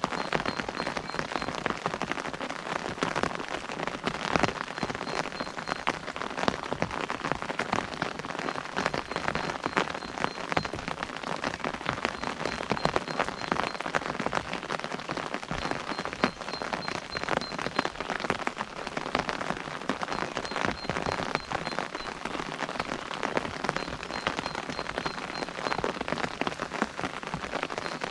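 Steady rain pattering on an umbrella, a dense patter with many separate drop taps close by.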